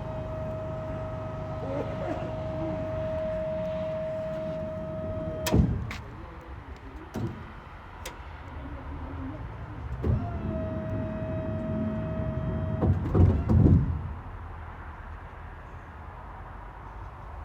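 A small electric motor on a Scania P270 box truck runs with a steady whine for about five and a half seconds and stops with a sharp clack. A few single clicks follow, then the motor whines again for about three seconds and ends in a run of clunks.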